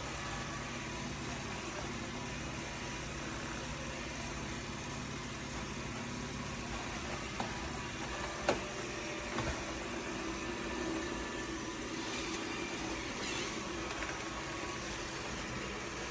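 Dreame L40 Ultra robot vacuum running with a steady motor hum, with a few light knocks about halfway through, the middle one the loudest.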